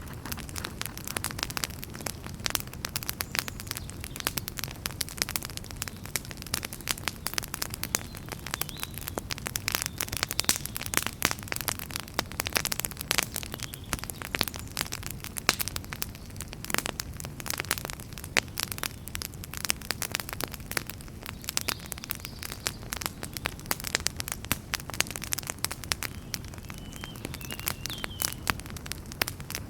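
Wood fire crackling in a fireplace: dense, irregular pops and snaps over a steady low rumble of the flames.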